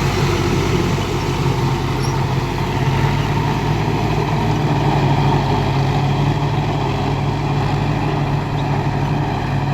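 Mahindra tractor's diesel engine running steadily at a constant speed, a loud, even low hum.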